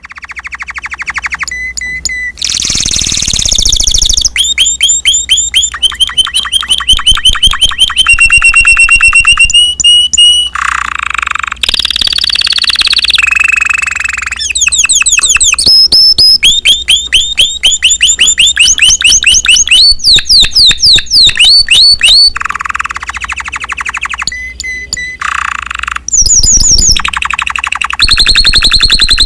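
Spanish Timbrado canary singing loudly and continuously: a string of rapid trills and repeated-note rolls, switching to a new phrase every second or few.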